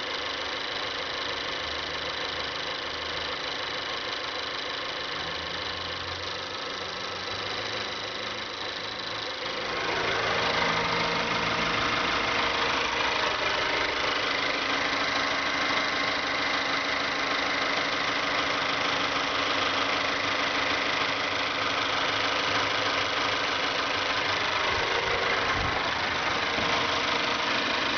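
2012 Mazda3 Skyactiv 2.0-litre direct-injection petrol engine running with a persistent tapping tick, which the dealer's mechanic says is normal. The sound grows louder and brighter about ten seconds in.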